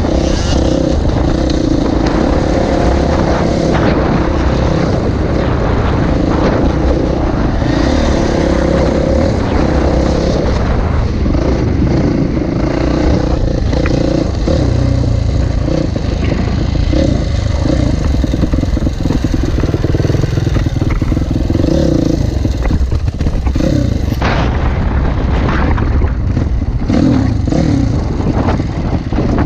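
Dirt bike engine running and revving up and down as the bike is ridden, loud throughout.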